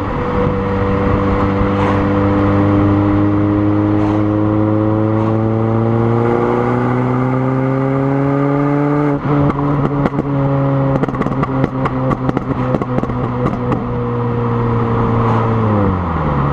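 Peugeot 206 GTi 180's 2.0-litre four-cylinder engine through a Powerflow cat-back exhaust. The revs hold steady, then climb slowly for a few seconds. About halfway through they drop, with a rapid run of crackles and pops lasting several seconds, and near the end the revs fall again.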